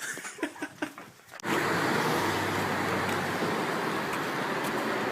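Brief laughter and chatter, then an abrupt cut about a second and a half in to a steady rushing noise.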